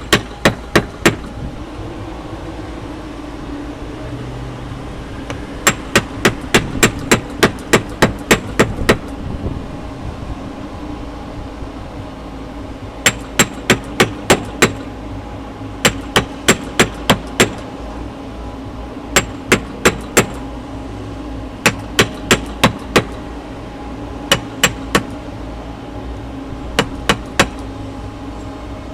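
Mallet striking a caulking iron, driving cotton caulking into a wooden boat's plank seam. The blows are sharp and ringing, about four a second, in short runs with pauses between.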